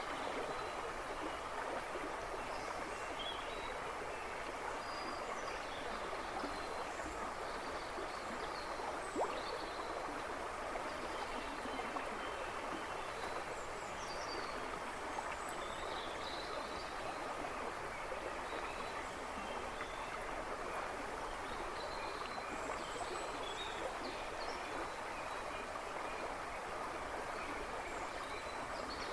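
River babbling and rushing steadily over stones, with a few small birds chirping faintly in the background. There is a single small splash or click about nine seconds in.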